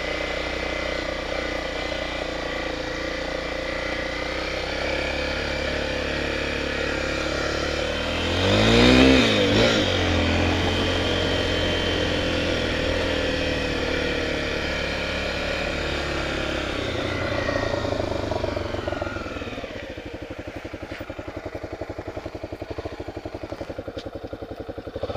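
Honda Tornado 250's single-cylinder four-stroke engine running as the motorcycle is ridden. About eight seconds in it revs up and back down, the loudest moment. Near the end it settles into a slower, pulsing low-rev chug.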